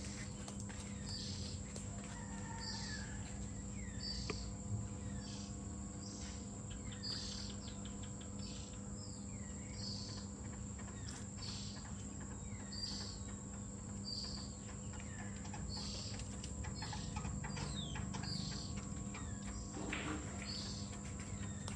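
Outdoor insect and bird sounds: a steady high-pitched insect drone with a short chirp repeating about one and a half times a second, over a faint low hum.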